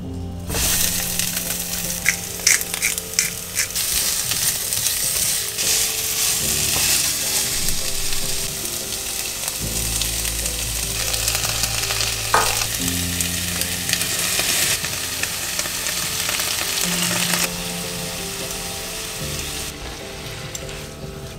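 Sliced bell peppers and onion hitting hot oil in a nonstick frying pan, sizzling at once and frying steadily as they are stirred, with a few quick clicks of utensils against the pan about two to three seconds in. The sizzle eases off near the end.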